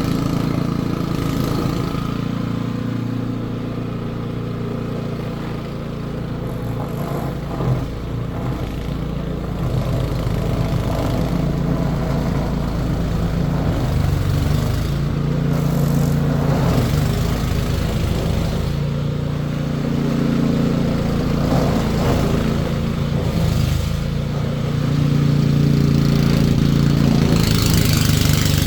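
An engine running steadily, its level rising and falling slightly and growing louder near the end.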